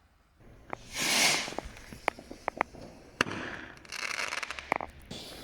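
Fireworks going off: a loud hissing swell about a second in, then a string of sharp cracks and pops, with another hissing swell near the end.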